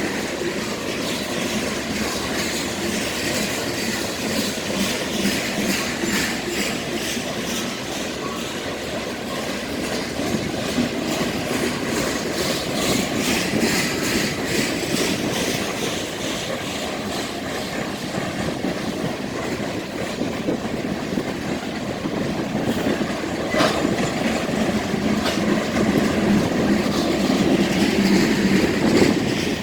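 Freight train of grain cars rolling past, steady wheel and rail noise with wheels clacking over the rail joints, and a single sharp clank partway through.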